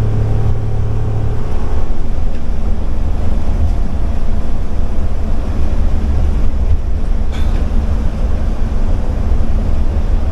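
Steady low engine and road rumble of a vehicle driving. A droning hum at one pitch drops out about a second and a half in, leaving the rumble.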